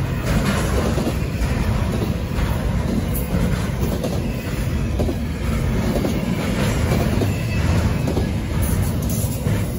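Double-stack intermodal freight train's well cars rolling past: a steady rumble of steel wheels on rail with repeated clacks.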